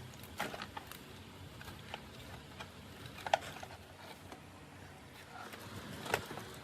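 Scattered light clicks and knocks from tools and parts being handled, the sharpest about three seconds in and another near the end.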